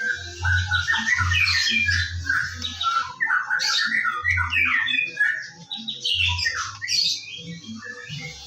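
White-rumped shama (murai batu) singing a fast, varied song of rapid whistles and harsh chattering notes, thinning out in the second half, with a low repeated thudding underneath.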